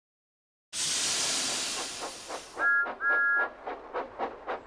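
Steam locomotive sound effects: a loud blast of escaping steam, then two short whistle toots and steady chuffing at about four puffs a second as the engine gets under way.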